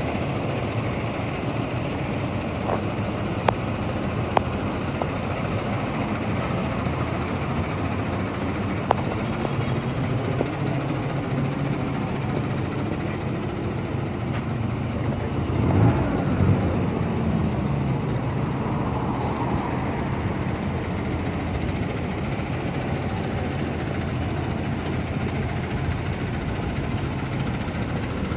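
Diesel engine of a 2007 Ford F750 dump truck idling steadily, with a brief swell about halfway through. A few sharp clicks come in the first third.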